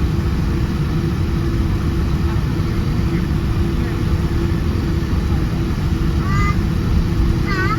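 Steady low rumble of a Boeing 787-10's cabin with its engines running, over a constant hum. Near the end come a few short, high, chirping voice-like sounds.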